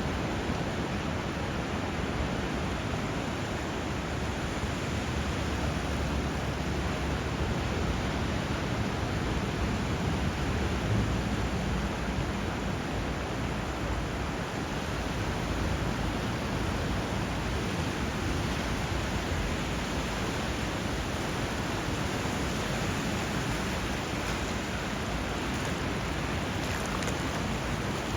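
Steady rush of flowing water and surf, with a deep low rumble that swells around the middle and eases off again.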